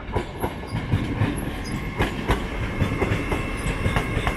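Avanti West Coast Class 805 bi-mode multiple unit arriving slowly into the terminus, its wheels clicking and knocking irregularly over rail joints and pointwork above a steady rolling rumble, with a faint steady high whine.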